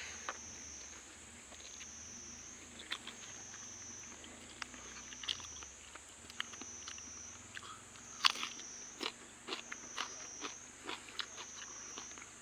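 Close-up eating sounds: a person chewing, with irregular sharp crunches and mouth clicks that come thicker in the second half.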